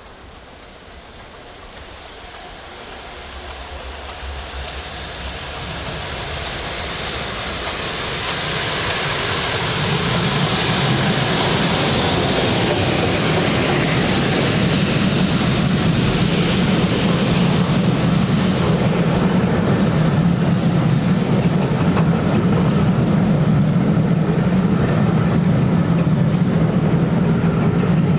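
A steam-hauled train approaching and passing close by: it grows steadily louder over about ten seconds, then the carriages keep running past as a loud, steady rumble.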